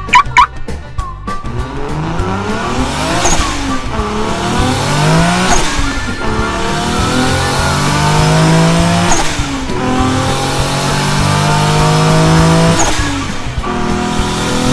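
Car engine accelerating hard through the gears: its pitch climbs and drops back at each shift, about four times.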